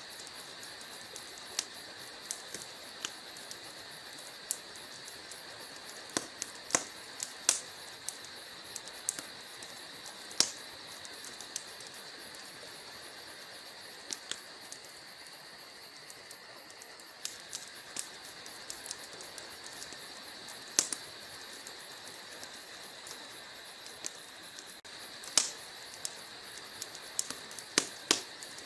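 Logs burning in a fireplace: irregular sharp crackles and occasional louder pops over a steady hiss.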